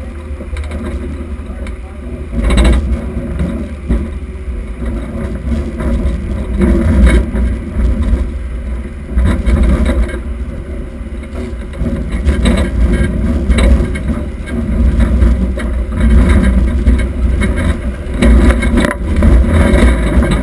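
1976 Oldsmobile Cutlass Supreme demolition derby car's engine running, its loudness swelling and falling unevenly, with a sharp knock about two and a half seconds in.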